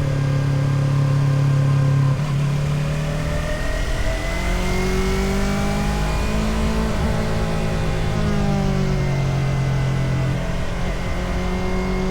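Motorcycle engine running on the road, its note dropping with a gear change about two seconds in, then rising and falling again as the throttle is worked.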